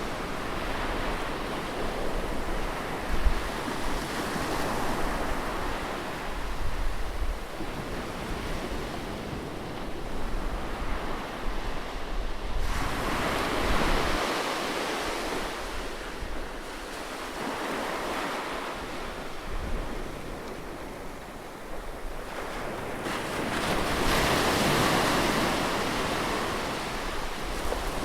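Ocean surf breaking on a beach: a continuous wash of waves swelling and receding every several seconds, with wind buffeting the microphone.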